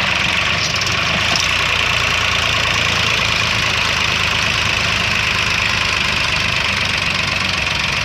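Tractor diesel engine running steadily, with a rapid, even firing beat.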